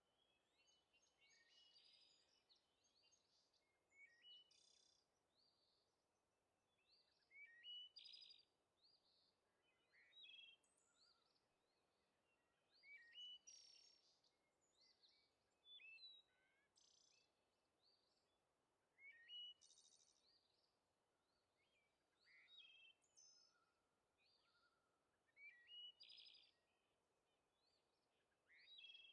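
Faint birdsong: several birds chirping, with short phrases of quick rising and falling notes repeating every couple of seconds.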